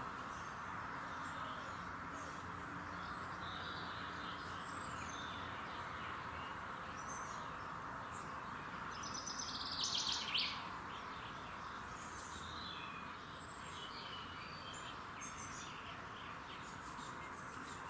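Several small songbirds chirping and singing over a steady background hiss. A louder, rapid trill falls in pitch about ten seconds in.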